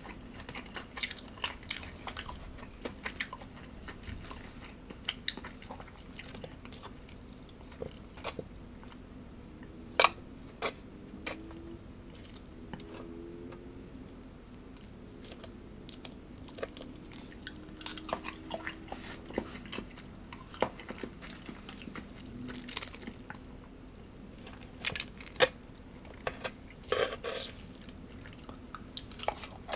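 A person chewing and biting crunchy food close up, with irregular crisp crunches and clicks, two of them much sharper, over a faint steady hum.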